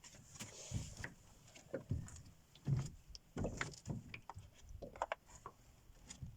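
A run of irregular knocks, bumps and clicks, a dozen or so, none of them regular.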